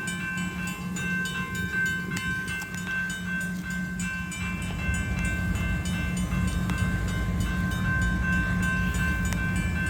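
Freight train cars rolling slowly over the rails with a steady low rumble, while the grade-crossing warning bells ring continuously: a steady electronic bell tone mixed with the rapid, even strikes of a mechanical bell.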